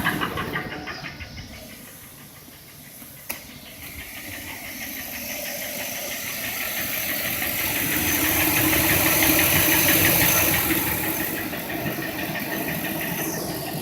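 Ford 5.4L Triton V8 engine running, its idle knock tapping at first and then fading into a broad hissing rush that swells and eases off, with a single sharp click about three seconds in.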